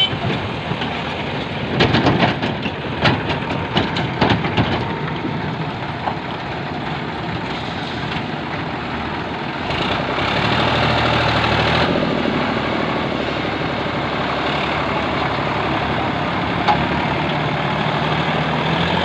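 Heavy diesel machinery running steadily, with a cluster of sharp clanks and knocks a couple of seconds in, and the engine noise growing louder about ten seconds in.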